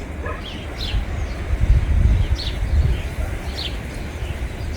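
Gusty wind buffeting the microphone, a low rumble that swells and eases, with small birds chirping in short high calls about once a second.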